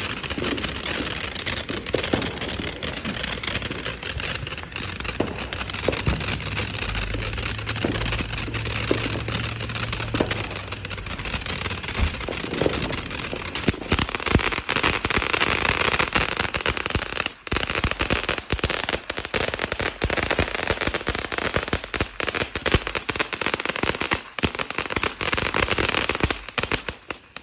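A consumer firework going off continuously, a dense crackling with many sharp pops. The popping comes faster in the second half and stops right at the end.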